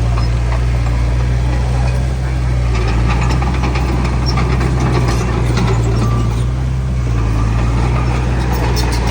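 Heavy diesel engine of earthmoving machinery running steadily at a constant speed, with scattered light clicks over the top.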